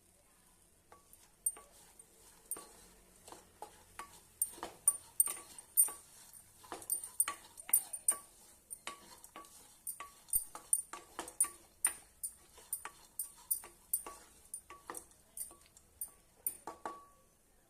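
A metal spoon knocking against a steel cooking vessel while stirring: a run of sharp, irregular clinks, about two to three a second, each with a short metallic ring, starting about a second in and stopping just before the end.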